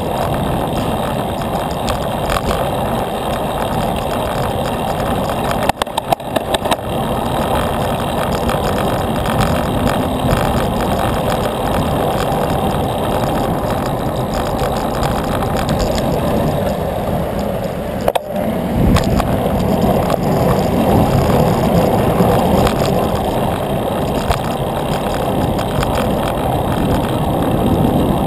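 Steady rushing noise of a bicycle ride along a road: wind and road noise with motor traffic, broken by a short crackle about six seconds in and a sharp knock about eighteen seconds in.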